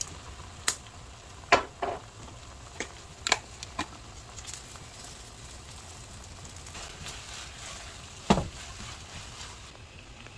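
Food sizzling as it fries in a pan, with several sharp clicks and knocks, the loudest about a second and a half in and again just after eight seconds.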